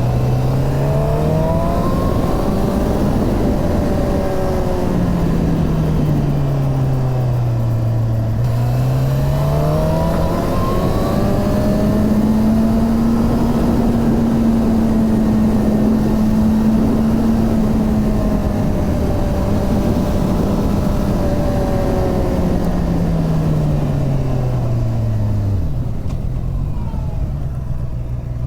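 Suzuki GSX-R 750 inline-four engine under way, its note rising and falling as the revs change. It climbs at first, drops to a low about eight seconds in, climbs again and holds fairly steady for several seconds, then falls away near the end before rising again.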